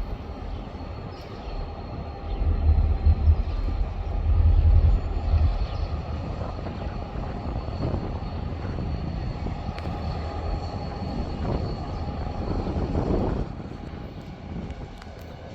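A passing train running with a steady rumble. Gusty low rumbling about a few seconds in is wind on the microphone, and the sound eases near the end.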